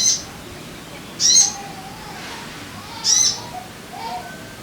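Sogon bird calling: a short, high call repeated three times, about one and a half to two seconds apart, with softer, lower whistled notes in between.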